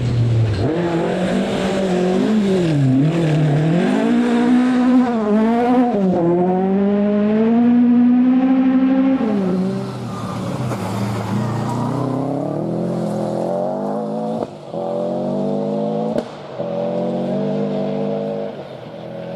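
Rally car engine at full stage pace, its note rising and falling with throttle and gear changes, held high for a few seconds before dropping away just before halfway. It then climbs again, with two short sharp breaks in the note in the second half.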